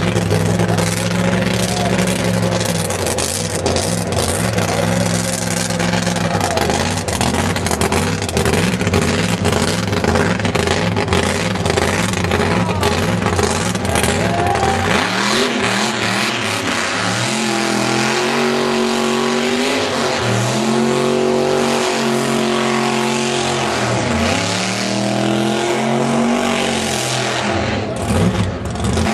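A 1957 Chevrolet burnout car's V8 engine running at high revs while the rear tyres spin and smoke in a burnout. The revs are held fairly steady for about the first half, then are revved up and down over and over.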